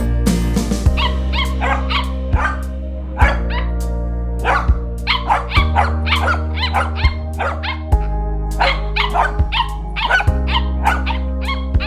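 Welsh corgi barking repeatedly in quick runs of short, high yaps, over background music with steady held low notes.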